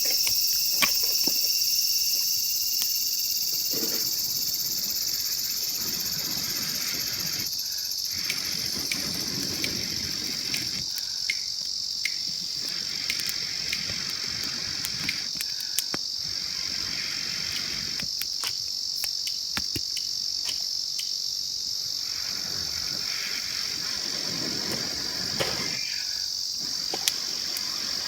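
Insects chirring in a steady, high-pitched chorus, with scattered light clicks and ticks over it.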